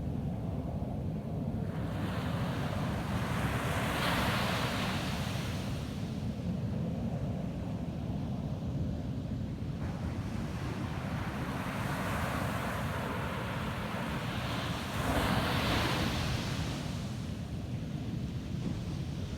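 Ocean surf breaking and washing up a sandy beach. The hiss of the water swells and fades about three times over a steady low rumble.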